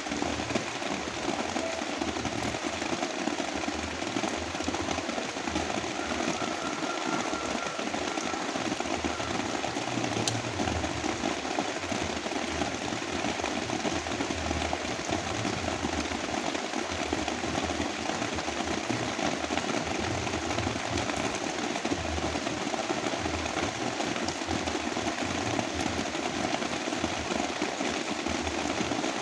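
Heavy rain falling steadily, blended with a steady brown-noise hiss.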